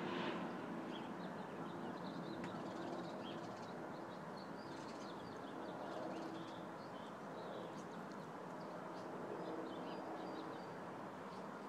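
Small birds chirping in short high notes, scattered throughout, over a steady background of outdoor noise with a faint hum.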